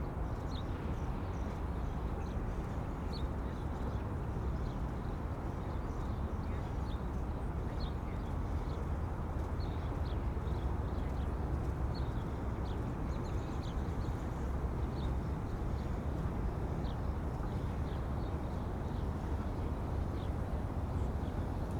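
Small birds chirping, short high chirps coming every second or so, over a steady low rumble of wind.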